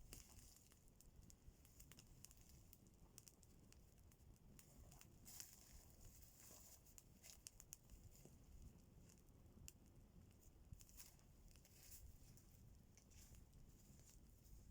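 Near silence with faint, irregular clicks and crackles scattered throughout.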